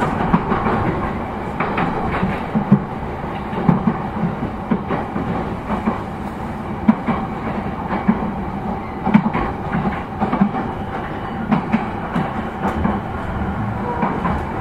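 JR E233-0 series electric commuter train running on the rails: a steady rumble with frequent, irregularly spaced clicks and knocks.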